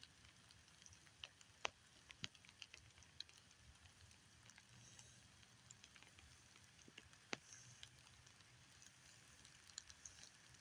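Near silence with faint, scattered sharp clicks and ticks at irregular intervals, a few louder ones standing out.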